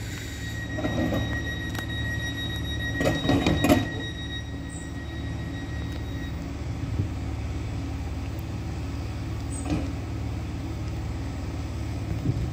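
Island Line Class 484 electric train standing at the platform, its onboard equipment giving a steady low hum. A steady high tone sounds over it for the first six seconds or so, and a short louder clatter comes about three seconds in.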